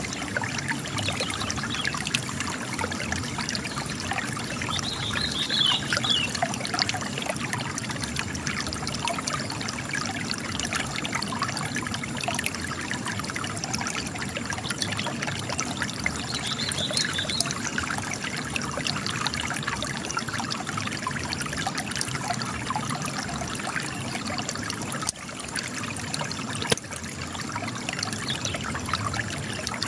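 Spring water trickling and splashing steadily as it comes out of cracks in rock.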